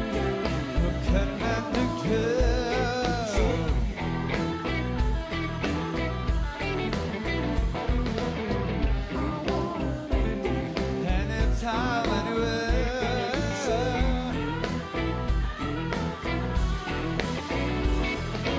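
Rock band playing live: drums keeping a steady beat under bass and guitars, with a sung melody coming in and out.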